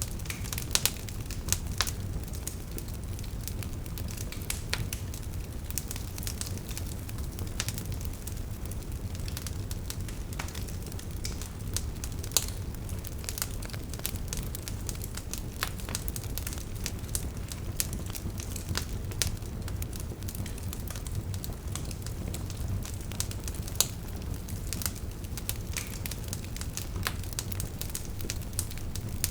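Wood fire burning, with steady low rumble and irregular sharp crackles and pops from the burning logs.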